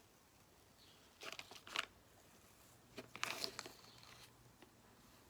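Crinkling rustle of decal transfer paper being handled and rubbed, in two short bursts about a second in and about three seconds in.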